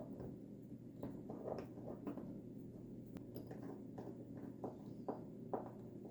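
Faint, light clicks and taps of small parts being handled as a fitting is worked into place by hand, over a low steady hum.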